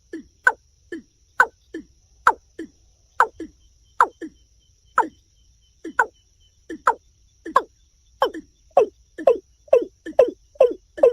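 Watercock (kora) calling: a series of deep, downward-sliding notes, each with a short lower note after it. The notes come about once a second and quicken to about two a second in the last few seconds.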